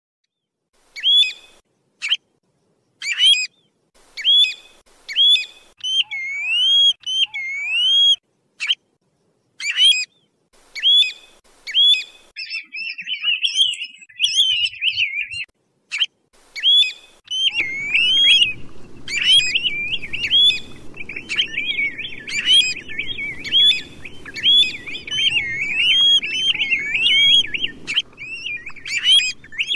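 A songbird giving loud, short whistled calls again and again, each note sweeping up and down. There is a stretch of rapid chattering about halfway through. In the second half the calls come almost without pause over a low rumbling background.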